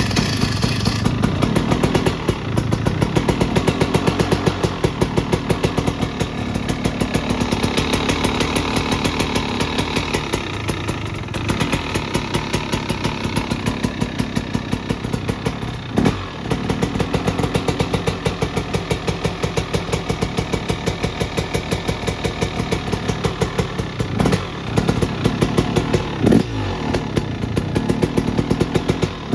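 2024 Husqvarna TX 300's single-cylinder two-stroke engine running on its first heat cycle after a fresh top end rebuild, with a fast, even firing pulse and a few brief changes in revs about halfway and near the end.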